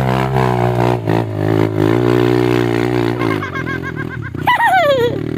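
A motor engine droning steadily, which fades out about three seconds in; near the end, high warbling chirps and a sharply falling squeal.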